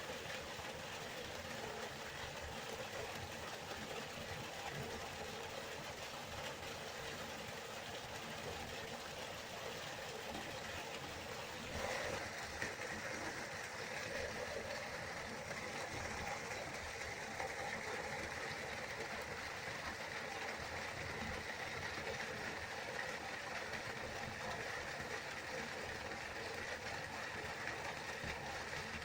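Waterfall: falling water making a steady, even noise, with a brief swell about twelve seconds in.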